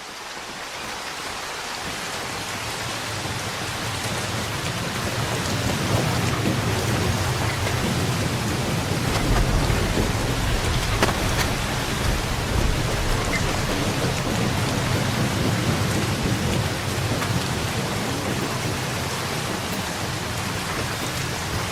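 Heavy rain falling steadily, fading in over the first few seconds, with a low rumble of thunder swelling in the middle.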